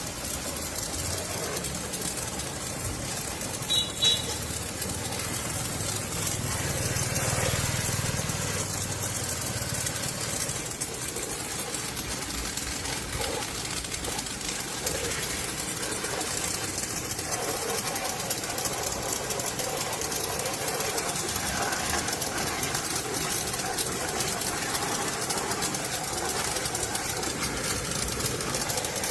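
A motor running steadily with a rapid mechanical clatter, with a brief pair of clicks about four seconds in.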